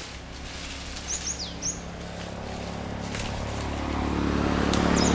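A few short bird chirps about a second in, over a steady low hum that grows louder over the last second and a half.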